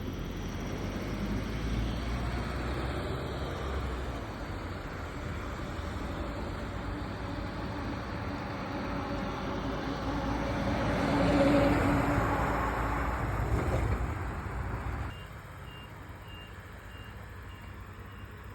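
A motor vehicle running and passing, growing louder toward the middle, then the level drops suddenly and a faint high beep repeats about twice a second.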